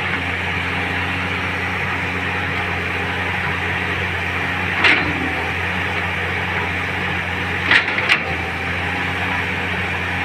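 Caterpillar excavator's diesel engine running at a steady drone, with three short noisy bursts about five and eight seconds in.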